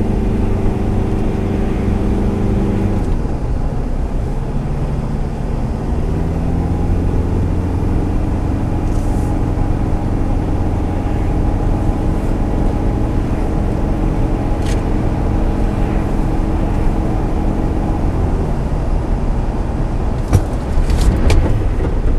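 Car engine running steadily with a low hum. Its pitch drops about three seconds in, and a few sharp clicks come near the end.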